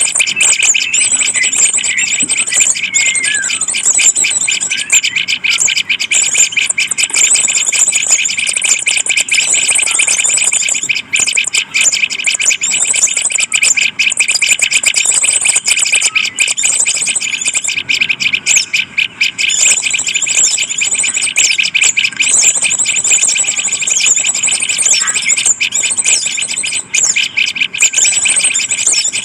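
Birds chirping continuously in a dense, high-pitched chorus.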